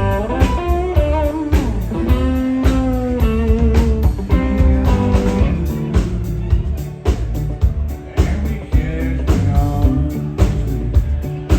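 Country-rock band playing an instrumental break: a lead electric guitar solos with bent, sliding notes over a steady drum beat and bass.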